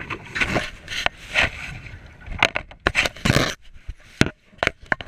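Irregular scraping, knocking and splashing from a kayak on the water.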